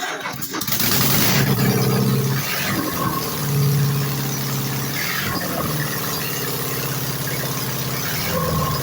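Engine running steadily with a brief burst of hiss a little under a second in and two short rises in level, about a second in and around three and a half seconds. With its new gaskets it runs evenly, sounding uniform, with no odd noise.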